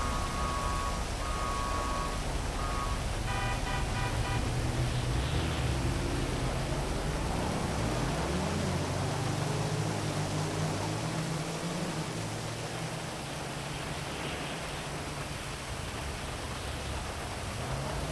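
Heavy rain hissing steadily over city traffic: vehicle engines passing, rising and falling in pitch. Several short car-horn toots sound in the first four seconds.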